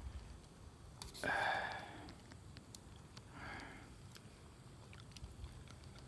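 A person sniffing twice, a strong sniff about a second in and a weaker one around three and a half seconds, with a few small clicks around them.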